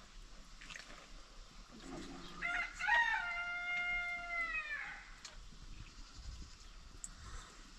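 Rooster crowing once: a single crow of about two and a half seconds, with a broken start and a long held last note that falls away at the end.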